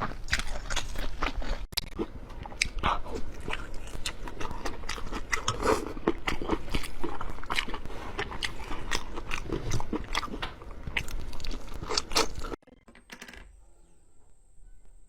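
Close-miked eating sounds: a dense run of crunchy bites and chewing. About twelve and a half seconds in it cuts off abruptly and drops to a much quieter stretch.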